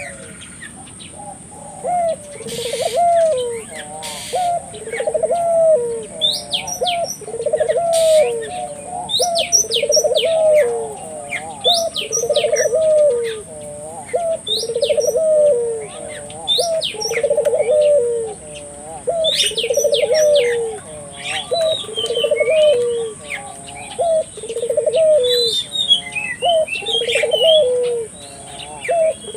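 Ringneck dove (burung puter) cooing over and over in full song, one low rolling coo phrase about every one and a half to two seconds. Small birds chirp higher above it, over a steady high hiss.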